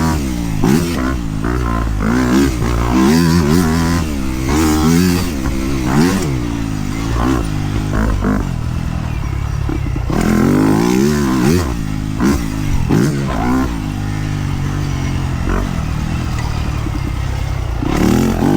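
Dirt bike engine being ridden off-road, its pitch rising and falling over and over with throttle and gear changes, with scattered clattering knocks.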